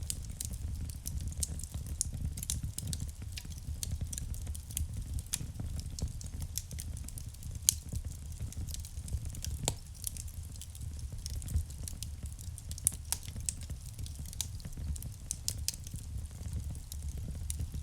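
Wood fire burning in a fireplace: a low steady rumble of flame with irregular crackles and sharp pops, the loudest pop about eight seconds in.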